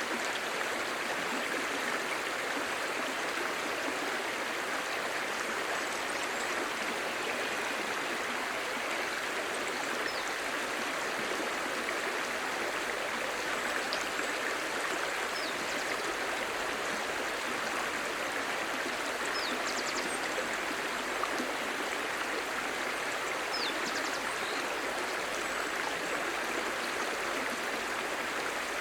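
Clear stream babbling steadily, with a few faint, brief high chirps now and then.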